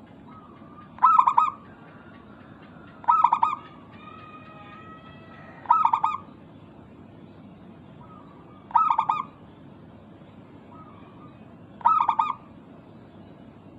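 Zebra dove (perkutut) cooing: five short, loud trilled coos about every three seconds, each led by a softer introductory note.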